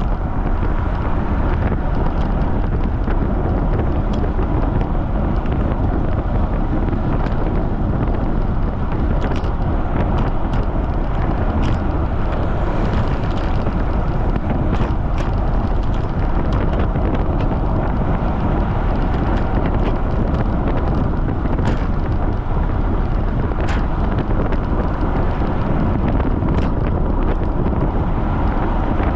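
Strong wind buffeting the microphone of a camera riding along on a bicycle at speed: a steady, loud low rush of wind noise, with a few faint ticks scattered through.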